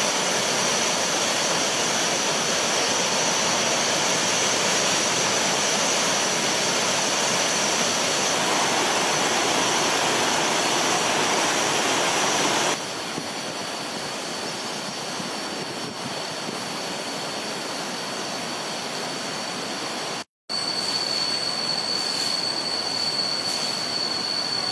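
Steady roar of a flooded river in spate, rushing water. It drops in level about halfway through and cuts out for an instant near the end.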